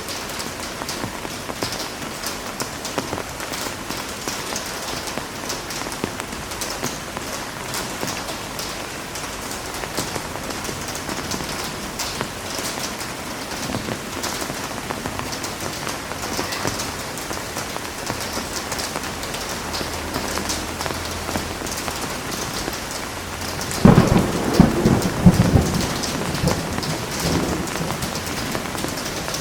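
Steady heavy rain, with a sudden clap of thunder near the end that rumbles for a few seconds and fades.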